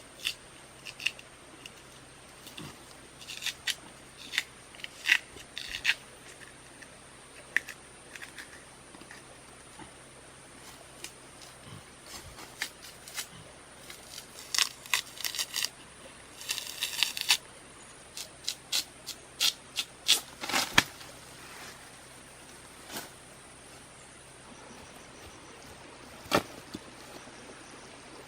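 Hand work with a blade on bamboo or wood: irregular sharp cutting clicks and snaps, with a brief rasping scrape a little past halfway and a few louder cracks later on.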